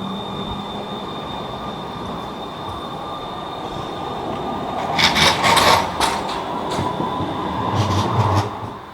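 A tram running on its rails, with steady running noise and a faint high whine. About five seconds in, and again near the end, there is a clatter of wheels over the track. The sound then cuts off suddenly.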